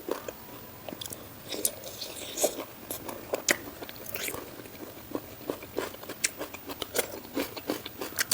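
Close-miked eating: a person biting and chewing crunchy food, with sharp, irregular crunches and mouth clicks coming several times a second, more often in the second half.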